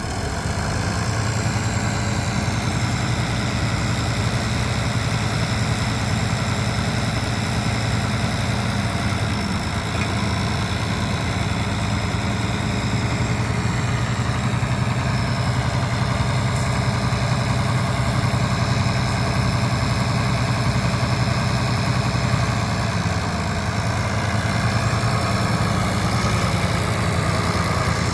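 International Harvester 1086 tractor's turbocharged six-cylinder diesel engine idling steadily.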